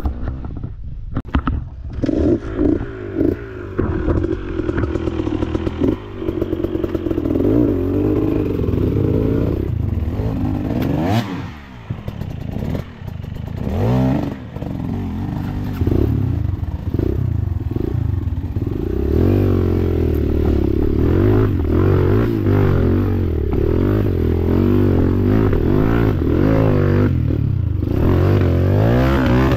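Dirt bike engine running and revving in bursts, with clattering and scraping. The revs rise and fall sharply around the middle, then hold higher and steadier in the second half and climb again near the end.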